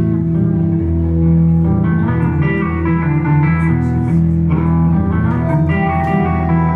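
Live band playing an instrumental passage: guitar over a steady bass line.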